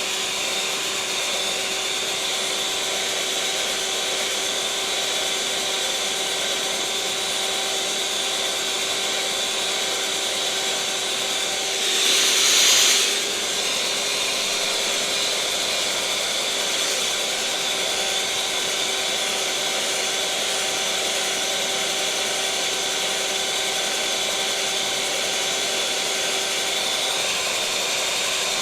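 Electric mixer motor running steadily at one speed: a whirring hum with a steady whine over it. About twelve seconds in it briefly gets louder and hissier for about a second, then settles back.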